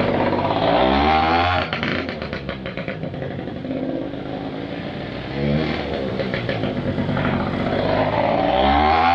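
Dirt bike engine accelerating three times, its pitch climbing about a second in, around five and a half seconds in, and again near the end. In between, the engine drops back to lower, uneven running off the throttle.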